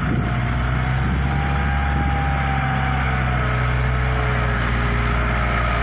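Dump truck's diesel engine running steadily at low revs as the truck reverses.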